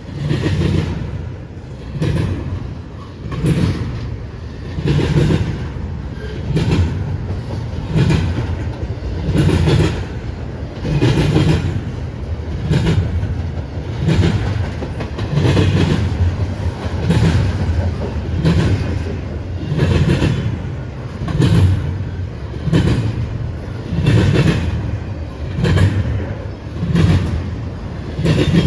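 Freight train cars rolling past at speed, the wheels knocking over the rail joints in a steady clickety-clack, a group of clacks about every three-quarters of a second over a continuous low rumble.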